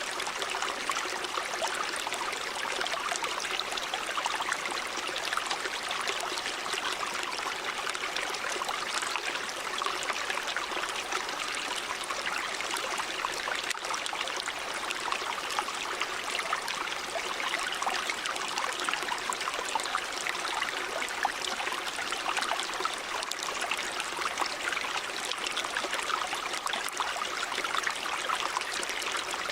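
River water running over rocks: a steady rush of flowing water with a constant fine babble and trickle, mostly high and airy with little low rumble.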